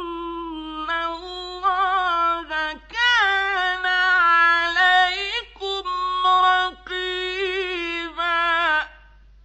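A male Quran reciter's high voice in mujawwad style, drawing out a long melodic phrase in several held, wavering notes with short breaks, ending about nine seconds in.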